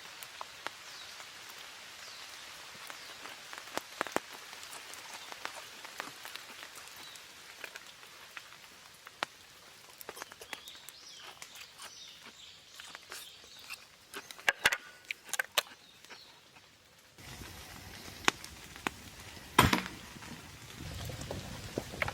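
Light rain starting to fall, with scattered raindrops tapping irregularly on the tarp and a few louder taps about two-thirds of the way in and again near the end.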